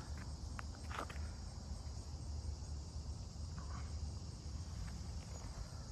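Quiet outdoor background: a steady high-pitched insect chorus, like crickets, over a low steady hum, with a few faint clicks.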